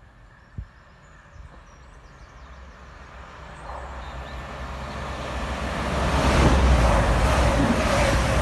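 A passenger train approaching and running past close by, its rumble and wheel-on-rail noise building from about three seconds in to loudest over the last couple of seconds, with a steady hum under the rush. A single sharp knock about half a second in.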